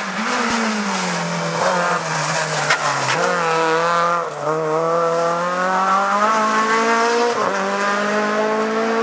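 Rally car engine under hard acceleration on a stage, its note falling and rising as the driver lifts and shifts gears, with brief dips in the note a few times.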